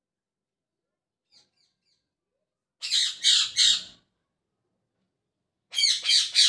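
Pet parrot calling: a few faint chirps, then two loud bursts of three shrill squawking calls each, about three seconds apart.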